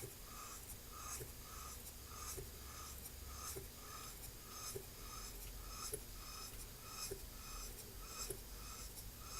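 Small model steam engine running slowly and smoothly on low pressure, about 2.5 psi: soft, even exhaust chuffs a few times a second with light mechanical ticks.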